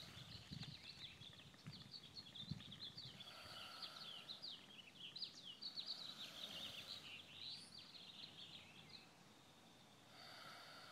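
Birds chirping in the trees, a dense run of quick high chirps that thins out about nine seconds in. Underneath, faint slow breaths through the nose every few seconds, and a couple of soft low bumps in the first few seconds.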